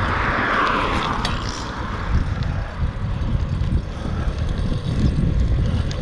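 Wind rumbling on the microphone with road noise as a fixed-gear bicycle is ridden, and a louder rushing hiss in the first second.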